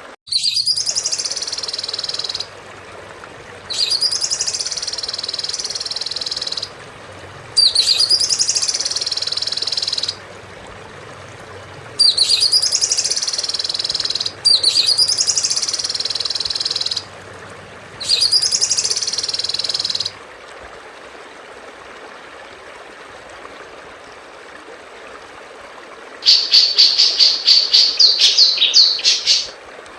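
Recorded songbird song from a bird-song training (masteran) track: a high phrase of two to three seconds that sweeps down in pitch, repeated six times with short gaps, then after a pause a rapid high trill of evenly spaced notes lasting about three seconds near the end.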